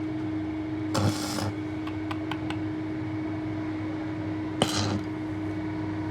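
A steady machine hum, with two short bursts of hiss about a second in and just before five seconds in. The second burst starts with a sharp click.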